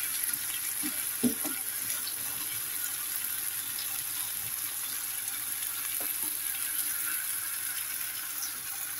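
Cherry tomatoes and egg sizzling steadily in a frying pan, with a wooden spatula stirring and knocking against the pan a few times about a second in.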